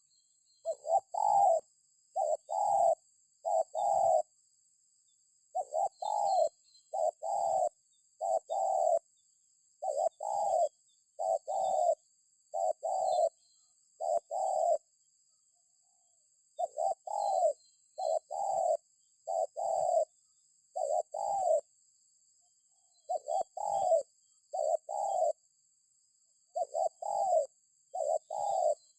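Spotted dove (tekukur) cooing over and over in short phrases of two to four hooting notes, with brief pauses between phrases.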